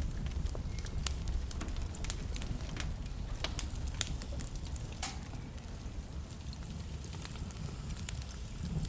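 Wood fire burning in a fireplace: a steady low rumble of flame under irregular crackles and pops from the burning logs, with a cluster of sharper pops in the first half.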